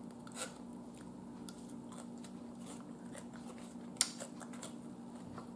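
Faint eating sounds: quiet chewing with small mouth ticks, and one sharp click about four seconds in, over a steady low hum.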